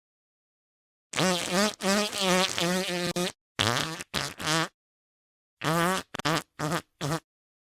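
Breaking wind, heard as a run of pitched, wavering blasts: one long one of about two seconds, then groups of short ones, each cut off into dead silence.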